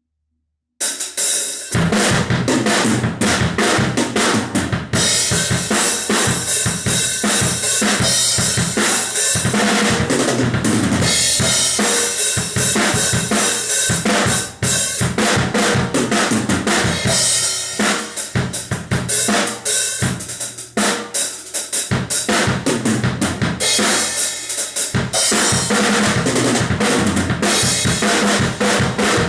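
Drum kit played in a steady groove of bass drum, snare and brass cymbals (Krest Aged Brass hi-hat, crash and crash ride), starting abruptly about a second in after a moment of silence.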